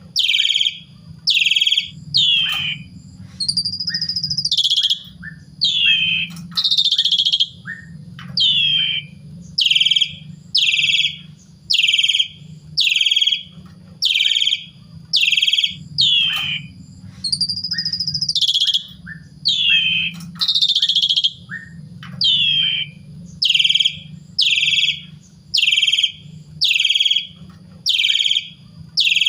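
Asian pied starling (jalak suren) singing: a loud call repeated about once a second, each note falling in pitch, broken now and then by a longer whistle.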